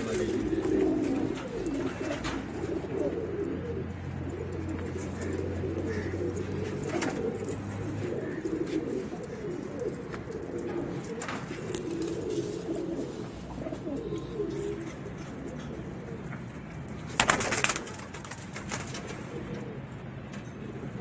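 Pigeons cooing continuously, with a low steady hum under the first eight seconds and one brief loud noise about seventeen seconds in.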